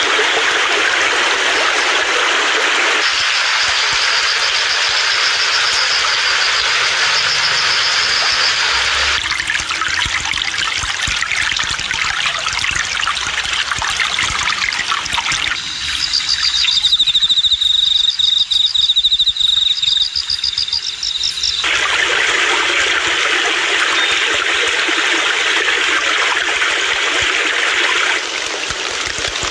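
Rushing, trickling water, loud and even, changing character abruptly every few seconds as one stretch of flowing water gives way to another. Partway through, a rapid high-pitched chirping sounds over the water for several seconds.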